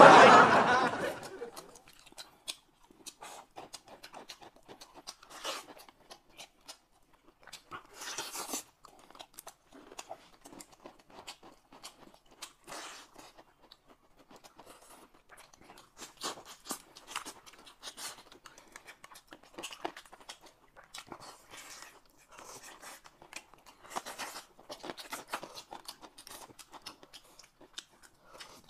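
Close-miked eating sounds: chewing and biting into a chicken drumstick and noodles, made of scattered short crunches and wet mouth clicks with brief pauses between them.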